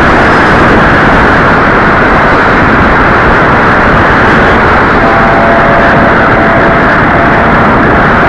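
A loud, steady rushing noise, with the thin whine of a radio-controlled model plane's motor and propeller showing faintly about five seconds in.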